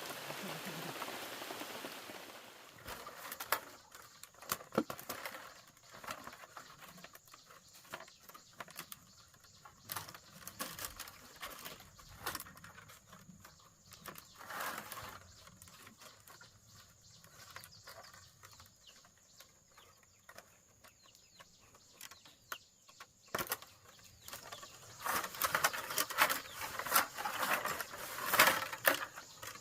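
Irregular sharp clicks and rustling, sparse through the middle and busiest near the end. A steady rain-like hiss fades out about two seconds in.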